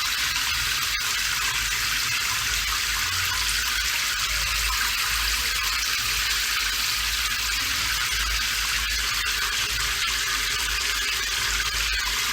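Steady rain falling, an even hiss with a faint low rumble underneath and a single tick about a second in.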